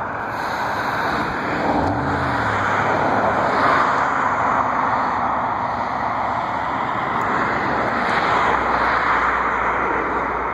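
Jet airliner passing near the airport: a loud, steady engine roar that swells twice.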